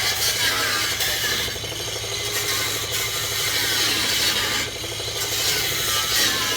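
A power tool working on the car's steel body, running steadily with a noisy scraping rattle and easing off briefly twice.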